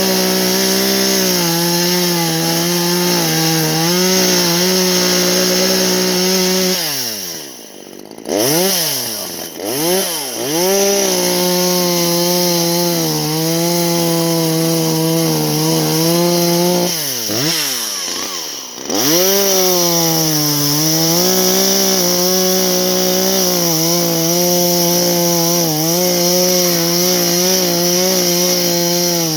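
Chainsaw engine running at high revs. Its note sags and revs up and down a few times about seven seconds in and again around seventeen seconds in, then settles back to a steady high pitch.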